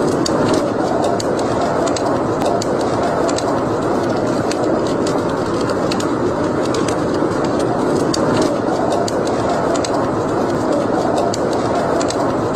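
Wood fire burning in a fireplace: a steady noise of flames with frequent sharp crackles and pops.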